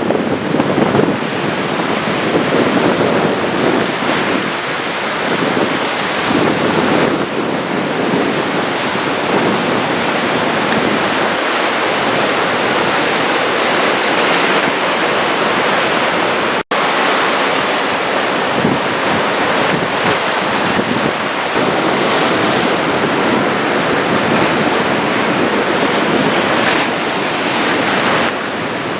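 Continuous roar of large surf breaking, head-high typhoon swell rolling in, with wind buffeting the microphone. The sound cuts out for an instant about halfway through.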